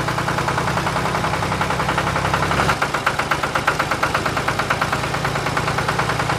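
Tractor engine idling with a rapid, even chugging beat.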